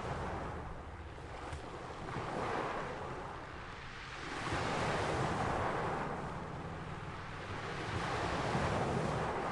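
Ocean surf: waves breaking and washing in one after another, the rushing noise swelling and ebbing about every three to four seconds.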